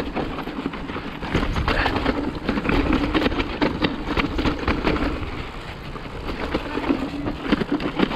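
Mountain bike rolling fast down a rough dirt trail: tyre noise with a steady hum, and frequent clicks, knocks and rattles from the bike over the bumps. Wind rumbles on the action camera's microphone.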